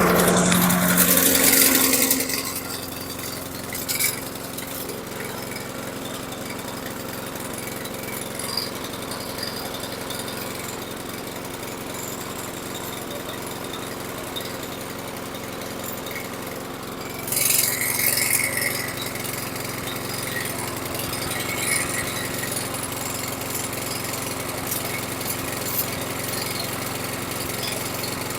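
Toro Recycler lawn mower's small single-cylinder engine just started, loud for the first couple of seconds and then running steadily, now firing on a new spark plug after the old NGK plug failed. A brief louder rise in its sound comes a little past halfway.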